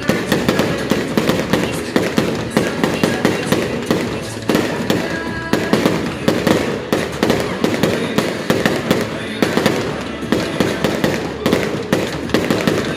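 Fireworks display in full barrage: shells bursting in rapid succession, several sharp bangs a second without a pause.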